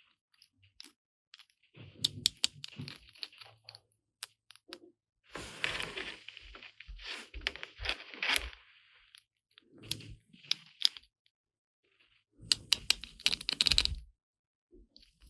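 Small plastic toy pieces and packaging being handled in four separate bursts of crinkling, tearing and sharp clicks, with short silent gaps between them.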